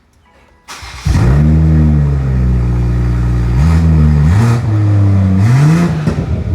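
A car engine and exhaust starting about a second in, settling straight into a steady fast idle, then revved briefly three times, each rev rising in pitch and falling back.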